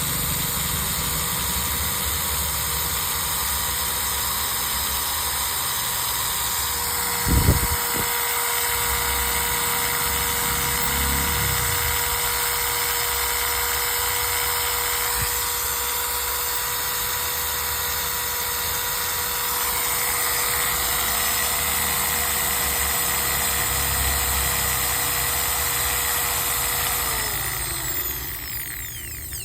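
Maktex 230 W electric drill running steadily with a constant whine, with a brief knock about seven seconds in. Near the end it is switched off and the whine falls in pitch and fades as the motor spins down.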